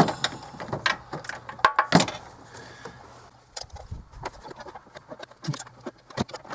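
Hand tools and metal parts clinking and knocking at the engine: irregular sharp clicks and taps, with a louder knock about two seconds in.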